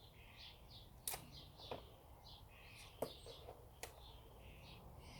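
Faint birds chirping, short chirps repeating every half second or so, with four sharp clicks in between.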